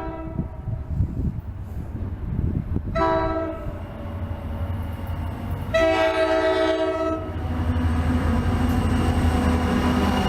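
Multi-note chord horn of an approaching New Jersey Transit passenger train giving the end of the grade-crossing signal: the tail of a long blast, a short blast about three seconds in, then a long blast about six seconds in. Beneath it the train's rumble grows louder near the end as it comes up.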